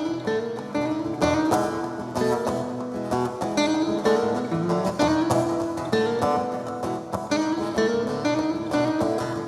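Acoustic guitar playing, a moving single-note line picked over strummed chords.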